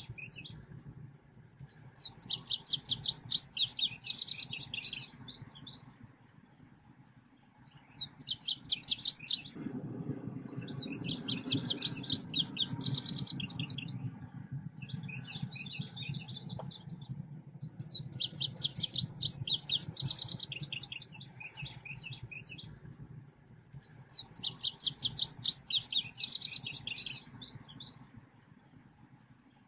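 Selendang biru songbird song, played as a lure and training call: high-pitched, rapid chattering trills in phrases of two to four seconds with short gaps, about six phrases in all. A faint low hum lies underneath.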